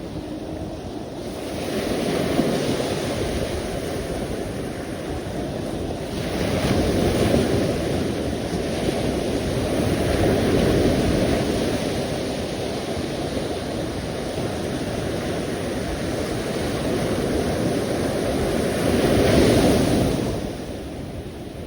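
Sea waves washing in and breaking, a continuous surf noise that swells and ebbs every few seconds, loudest near the end.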